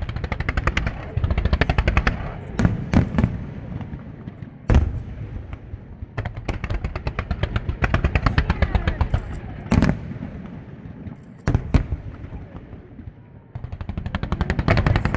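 Fireworks going off close by: long runs of rapid crackling reports, broken by about half a dozen single heavy booms.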